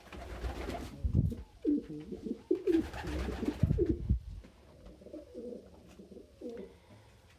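Domestic pigeons cooing in a small room: a run of low, warbling coos in the first half, then softer coos about five to six and a half seconds in.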